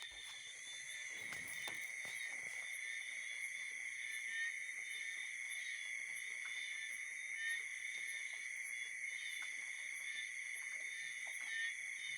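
Night chorus of frogs calling in gentle rain: a steady, many-voiced high-pitched trilling that never lets up, over a faint hiss of rain.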